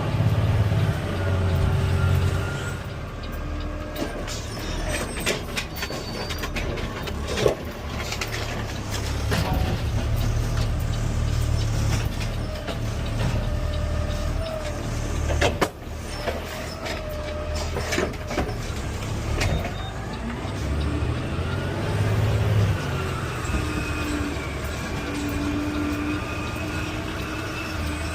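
CNG Peterbilt 520 garbage truck running, heard from the cab: a steady low engine rumble with whines that rise and fall, near the start and again near the end, and two sharp knocks about 7 and 15 seconds in.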